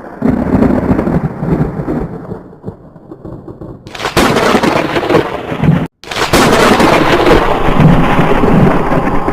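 Thunderstorm: a low thunder rumble that starts suddenly and fades away. About four seconds in, a sudden loud crash gives way to a hissing rush of rain and wind, with a brief dropout about two seconds later.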